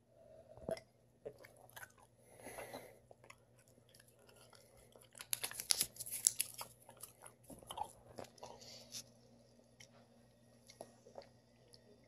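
Close mouth sounds of a person chewing a wad of paper: soft, wet clicks and crackles, thickest and loudest around the middle, with a sip from a glass near the start.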